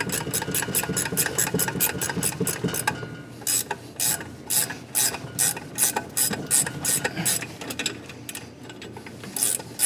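Hand ratchet clicking as it turns a thread chaser through an exhaust-side bolt hole on a KA24DE cylinder head, cleaning up the threads. It starts with a fast even run of clicks, then goes to slower separate strokes, about two a second, with a short pause before a last few clicks near the end.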